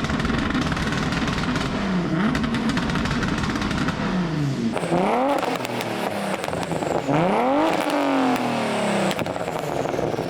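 A car engine revving over and over, its pitch rising and falling: smaller, quicker swings at first, then about halfway through three big revs that climb high and drop back.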